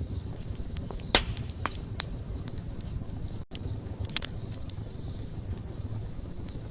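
Wood campfire burning: a steady low rumble of flame with sharp crackles and pops from the burning wood, the loudest pop about a second in. The sound drops out for an instant about halfway through.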